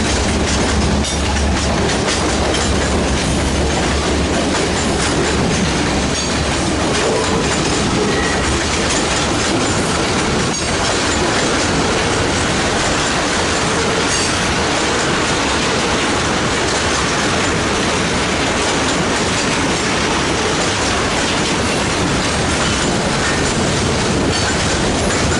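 Freight train cars rolling past, wheels clacking over the rail joints in a loud, steady rumble.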